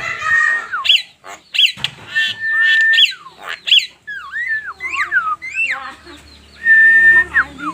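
Javan myna singing: a varied run of clear whistled notes, some held level and some swooping up and down, mixed with harsh rasping notes.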